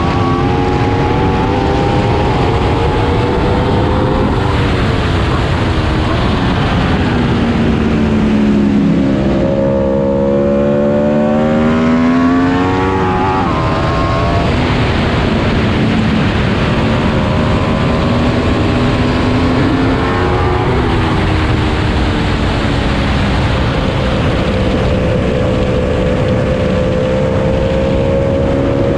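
Aprilia RSV4's V4 engine pulling hard on a racetrack, its pitch climbing through the revs and falling back several times as the bike accelerates, shifts and slows for corners.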